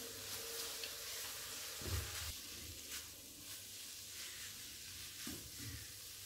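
Egg halwa frying in ghee in a nonstick wok, sizzling faintly while a silicone spatula stirs and scrapes through it, with a few soft thuds of the spatula against the pan. The halwa has begun to release its ghee, the sign that it is almost done.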